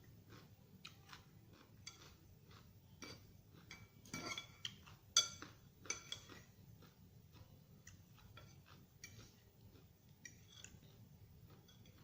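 Cutlery clinking and scraping against a dish while salad is eaten: irregular small clicks, a few louder ones about four to six seconds in.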